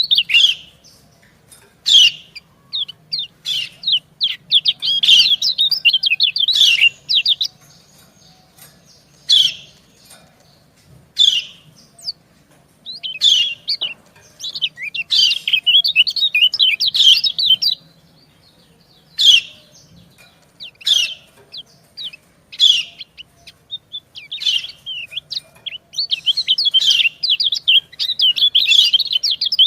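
Yellow white-eyes calling: sharp single chip notes alternating with rapid twittering runs a few seconds long, the female's 'ciak' calls answered by a male.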